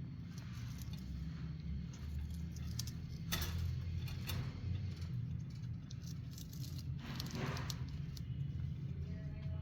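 Faint rattling and rustling with scattered light clicks over a steady low hum, with a short noisy rustle about three seconds in and a longer one near eight seconds.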